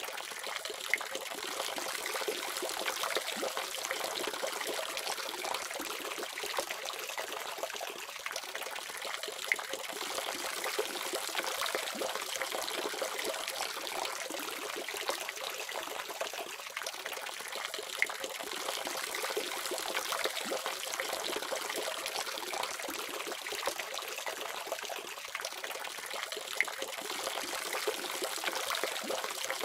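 Water running steadily from a faucet, an even splashing rush with a few brief sharper splashes.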